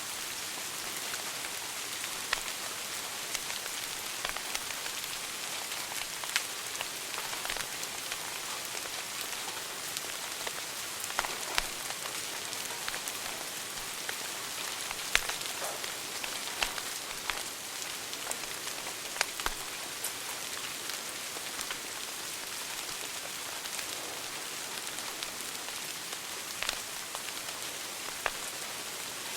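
Wood fire crackling in a fireplace: a steady hiss broken by irregular sharp pops and snaps, a few of them louder than the rest.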